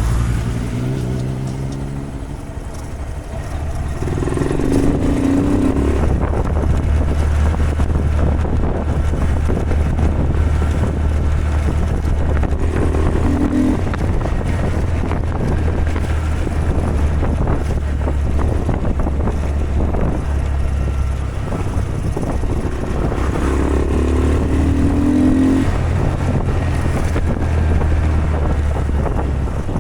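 Honda Grom's single-cylinder four-stroke engine running steadily while riding in traffic, with a few short changes in engine note.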